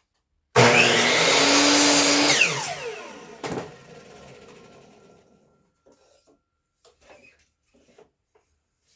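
Miter saw switched on and cutting a 45-degree miter in a 1x2 slat, loud for about two seconds, then released so the motor winds down in a falling whine. A sharp knock comes partway through the wind-down.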